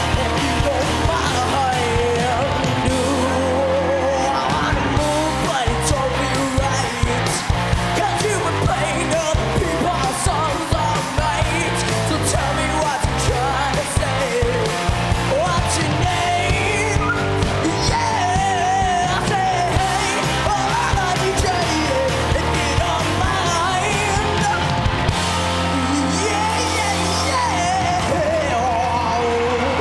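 Live rock song: a boy's voice singing over electric guitar, bass and drums with a steady beat.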